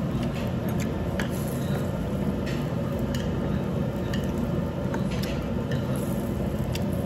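Close-up chewing with wet mouth sounds and scattered light clicks of metal chopsticks against dishes, over a steady low hum.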